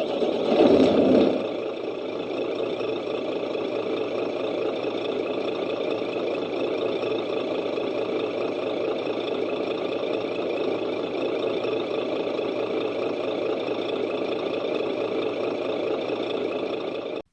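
A steady engine idling, louder for the first second or so, then holding an even drone until it cuts off suddenly.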